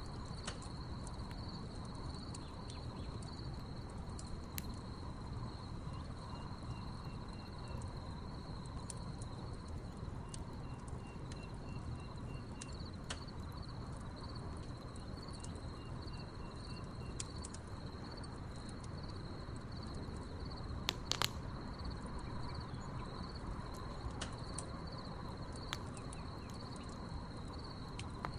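Crickets chirping in a steady chorus over a crackling wood fire, with scattered sharp pops from the burning logs, the loudest about two-thirds of the way in. A short, higher-pitched pulsed trill comes three times in the first half.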